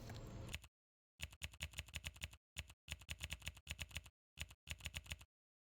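Rapid clicking in several short bursts, like keyboard typing, with dead silence between the bursts.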